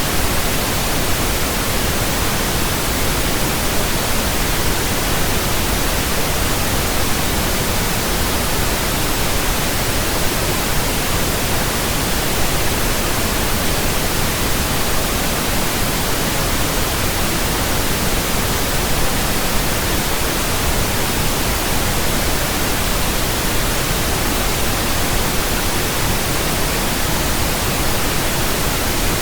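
Steady pink noise from a pink noise generator, an even hiss that does not change, played as a burn-in signal for new speakers and earphones.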